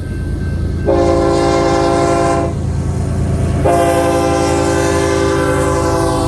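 Locomotive horn sounding two blasts over a passing train's low rumble: a shorter one starting about a second in, then a long one from a little past the middle. Each blast is a chord of several notes.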